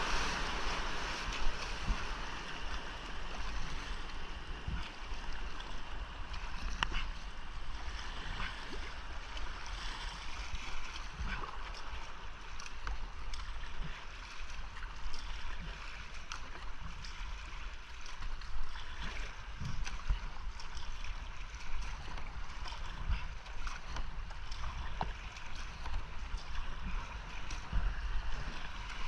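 Creek whitewater rushing steadily around a kayak, with irregular splashes from paddle strokes and water hitting the boat, picked up on a GoPro.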